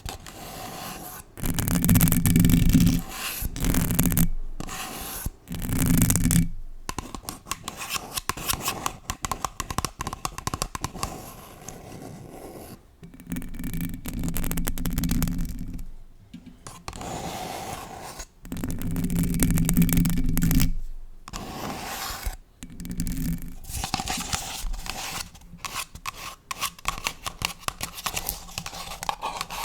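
Long acrylic nails scratching and rubbing a paper cup and a bare condenser microphone, in irregular stretches with short pauses. Some stretches are louder and carry a deep rumble.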